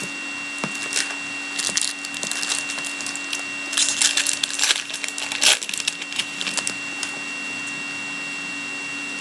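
Hockey card pack being torn open, its wrapper crinkling and crackling in quick irregular bursts that stop about seven seconds in, over a steady electrical hum.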